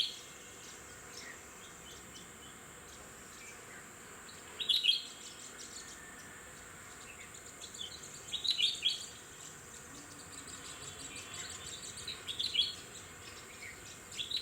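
Red-whiskered bulbul calling in short, loud, bright phrases that come about every four seconds, over a steady high-pitched hiss in the background.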